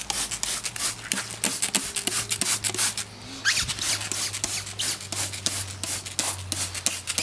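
Rapid, irregular rasping strokes, several a second, as an engine bay is worked over with diluted engine degreaser.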